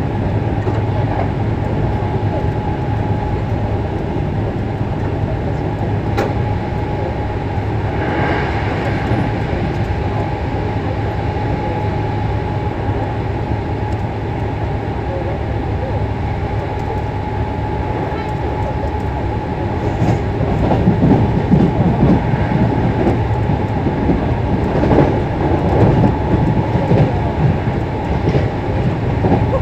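Running sound heard inside a Hankyu 6300 series electric train car at speed: a steady rumble with a steady whine, and a single sharp click about six seconds in. From about two-thirds of the way through it grows louder, with wheels clattering over rail joints.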